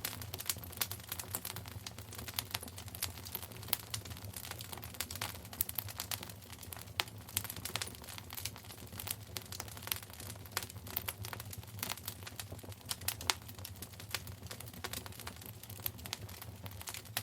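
Fire burning in a fireplace, crackling with frequent irregular pops and snaps over a steady low rumble.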